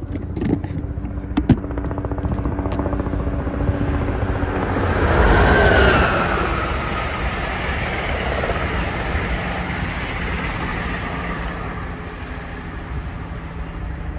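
Amtrak passenger train passing at speed, a steady rush of wheels on rail with a few sharp clicks near the start. It is loudest about five seconds in, where a tone drops in pitch, then it fades as the train pulls away.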